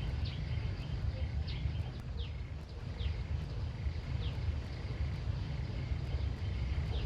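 Outdoor ambience: a steady low rumble under a short, high, downward-sliding chirp repeated about once a second, with a faint steady high hum.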